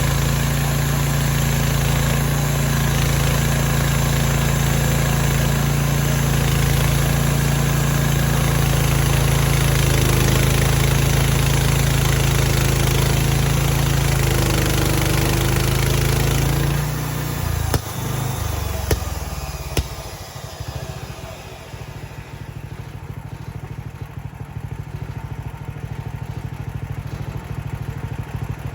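Mechmaxx bandsaw sawmill's engine running steadily at speed, then slowing a little past halfway with a few sharp clacks, and settling into a quieter, uneven idle.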